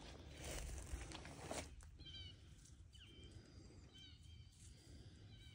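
Faint bird calls: short clusters of thin, high chirps repeating about once a second, after a second or so of footsteps rustling through vegetation.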